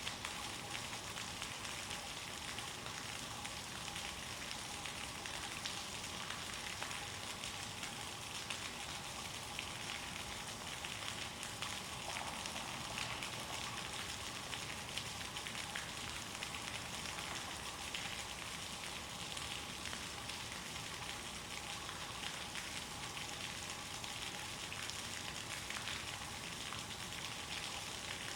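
Floodwater rushing past in a steady, even hiss with a fine crackle.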